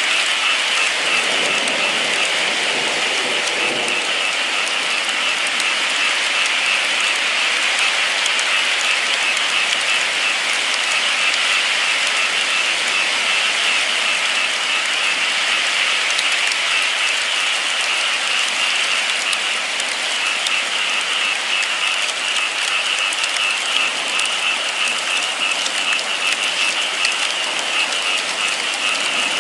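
Steady, heavy rain falling with a dense patter of drops on a surface.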